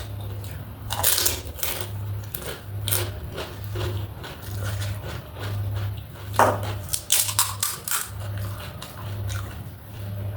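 Close-up chewing and crunching of crisp snack food during a mukbang: irregular crackling bites, loudest about six and a half seconds in.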